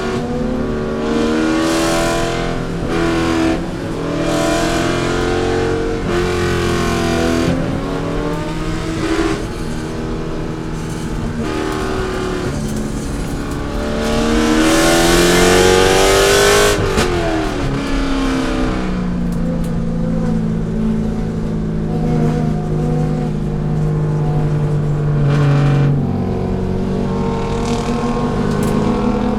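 C5 Corvette's V8 racing: repeatedly revving up and dropping back as it accelerates and shifts, with a long climb to its loudest about halfway through, a sharp drop just after, then a steadier stretch.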